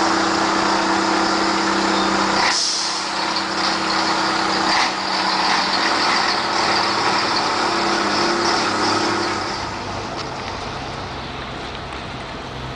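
Scania 112 truck's diesel engine running steadily, with two short hisses of the air brakes about two and a half and five seconds in; the sound fades a little toward the end.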